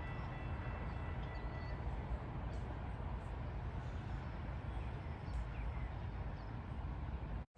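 Low, steady rumble of a GO Transit train moving away from a level crossing, with a few faint bird chirps. The sound cuts off abruptly near the end.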